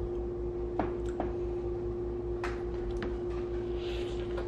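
Close-up eating sounds of a Vietnamese bánh mì sandwich being chewed: a few small mouth clicks and crunches, then a soft crackly crunch of the bread near the end as another bite is taken. A steady faint hum runs underneath.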